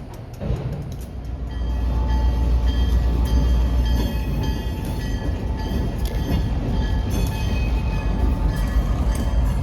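Freight train passing close by: a heavy low diesel-and-rail rumble that builds up over the first two seconds and then holds steady, with faint steady high tones over it.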